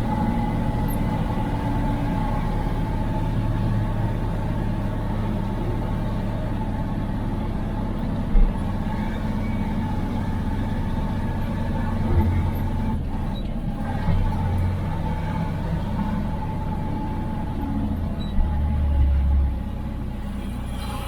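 Cab noise of an IFA L60 truck: its diesel engine running steadily, with a sharp knock about eight seconds in, a couple of smaller thumps, and a brief louder low rumble near the end.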